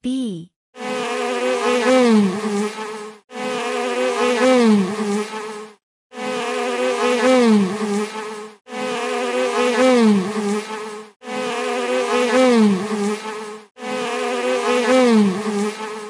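Honeybees buzzing: a low, steady hum whose pitch dips near the end of each stretch. The same buzz repeats six times in a row with brief gaps between.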